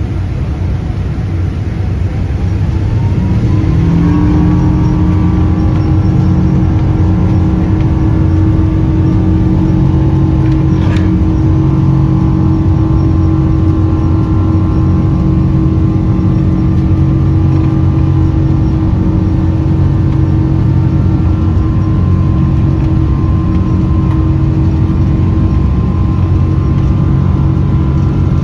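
Boeing 777 jet engines spooling up to takeoff thrust: a whine rising in pitch over a couple of seconds, then a loud, steady drone with a high whine as the aircraft rolls for takeoff. A single sharp click comes about eleven seconds in.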